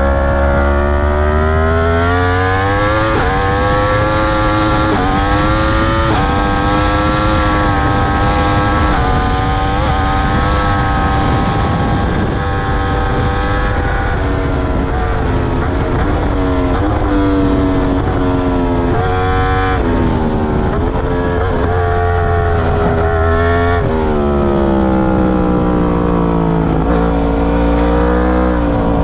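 A 2021 Yamaha R1's crossplane inline-four, through an Akrapovic full titanium exhaust with its dB killer fitted, heard from on the bike at speed. The engine pulls up through the revs with short breaks at each upshift. Near the end the pitch drops through downshifts, then climbs again.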